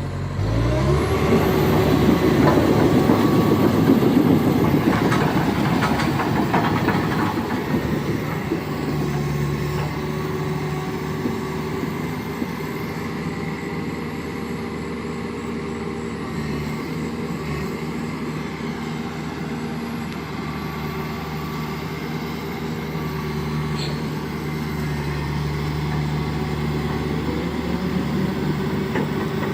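Toyota Hilux pickup's engine revving up about half a second in and running hard, loudest with rough noise for the first several seconds, then settling to a steady run.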